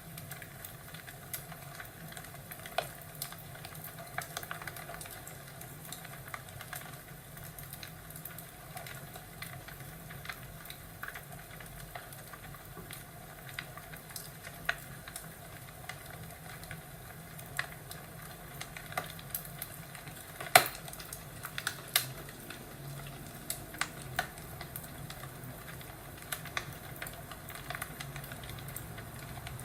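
Crackling fireplace: a steady low hiss with irregular sharp pops and snaps, the loudest pair about two-thirds of the way through.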